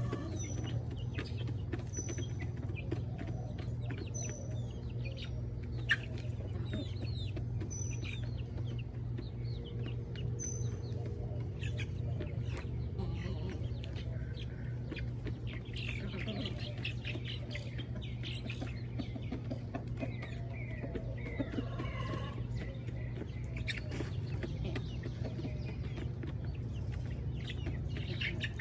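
Backyard chickens clucking, with a small bird chirping about every two seconds for the first ten seconds or so, over a steady low hum.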